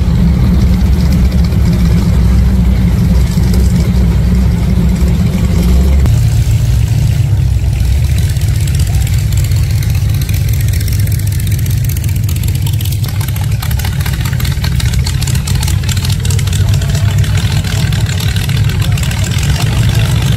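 Engines of classic cars and hot rods running at low speed as they roll past. A steady, heavy low engine sound that changes character about six seconds in.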